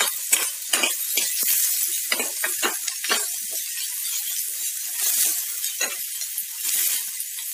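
Chopped onions, garlic and ginger sizzling in hot oil in a metal pan, with a steel ladle scraping and clinking against the pan in short irregular strokes as they are stirred.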